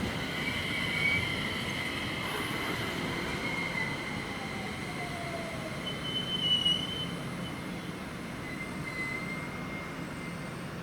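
Train running on rail with a high, steady wheel squeal and a rumbling underneath, easing off slightly toward the end.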